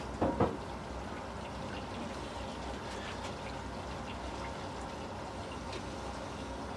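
Two quick knocks about a quarter second apart right at the start, then faint small clicks over a steady low hum as metal transmission parts are handled during assembly.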